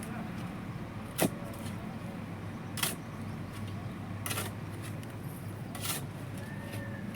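Steady low motor hum with four sharp knocks about a second and a half apart, the loudest about a second in.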